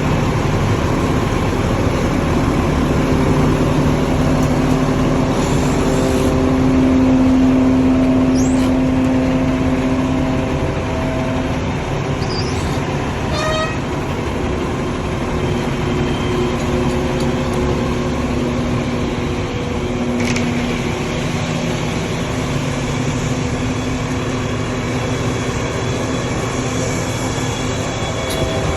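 Concrete mixer trucks' engines running steadily: a continuous rumble with a low hum, a little louder for a few seconds about a quarter of the way in.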